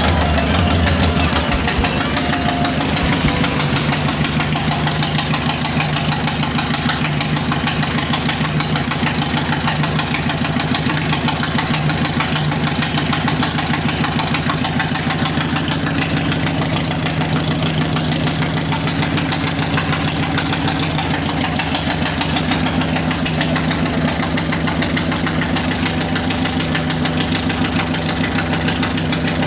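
Harley-Davidson Road King's air-cooled Twin Cam 88 V-twin engine idling steadily, an even train of firing pulses.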